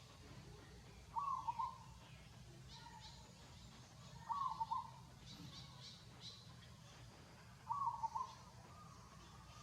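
A bird calling: one short call repeated three times, about every three and a half seconds, with fainter high chirps in between.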